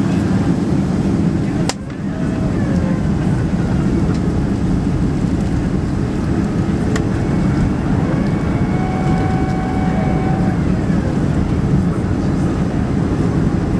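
Steady low roar inside the cabin of a Boeing 767-300 in flight: engine and airflow noise, with a brief drop in level about two seconds in.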